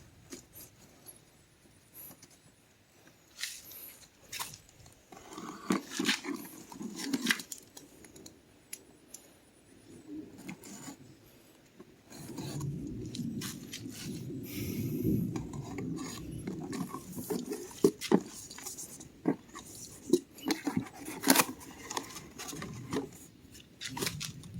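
Handling noises: scattered clicks and knocks of hard parts with stretches of rubbing and scraping, as a new chainsaw and its parts are handled out of the packaging.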